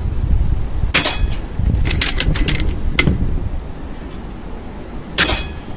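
Two sharp shots from a pre-charged pneumatic air rifle, about four seconds apart, with a few smaller mechanical clicks between them, over a steady rumble of wind on the microphone.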